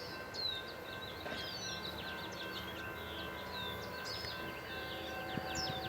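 Small songbirds chirping over and over in quick, falling notes, over a faint steady low hum of outdoor background noise.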